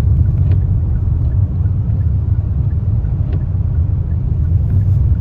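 Car driving, heard from inside the cabin as a steady low rumble of road and engine noise, with a couple of faint ticks.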